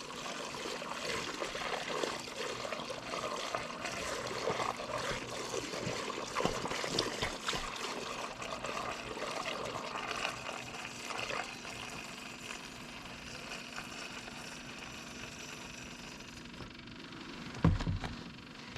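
Diesel fuel pouring slowly from a fuel can into a garden tractor's tank, a steady trickle that eases off in the second half as the tank tops up. A single thump a second before the end.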